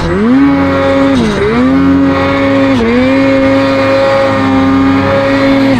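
Snowmobile engine running at high revs under load, holding a steady pitch with three brief dips in revs, at the start, after about a second and near three seconds in, as the throttle is eased and opened again.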